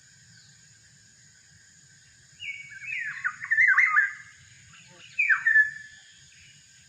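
Black-naped oriole (kepodang) giving fluty whistled calls: a run of gliding notes, then a shorter second phrase about a second later. A steady drone of insects runs underneath.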